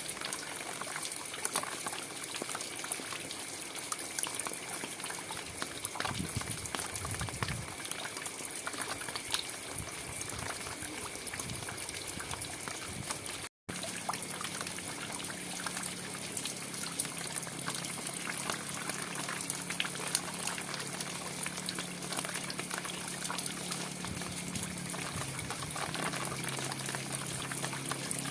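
Steady rain falling, an even hiss dotted with the ticks of many single drops. About halfway through the sound cuts out for an instant, and after it a faint low steady hum runs under the rain.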